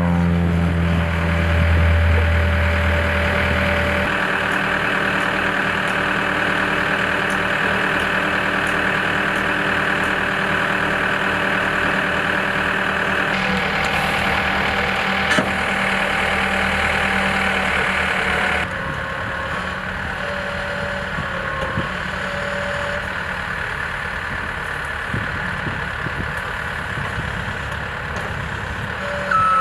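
Heavy equipment engine running steadily, its note shifting abruptly a few times. A reversing beep sounds right at the end.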